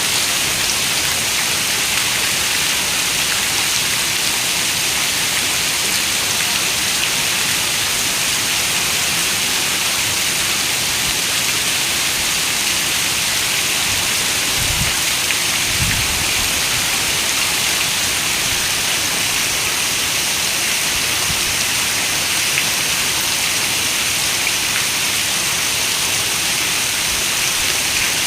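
Heavy rain falling steadily against a window pane, an even hiss of drops. About halfway through come two brief low thuds, a second apart.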